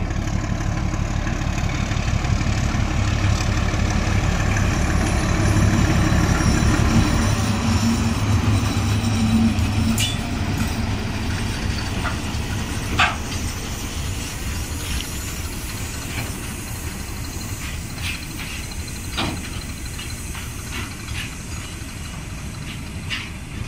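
Diesel shunting locomotive running past with a steady engine hum, loudest in the first ten seconds, then fading. After it comes a rake of flat wagons loaded with concrete sleepers rolling by, rumbling, with a few sharp clanks.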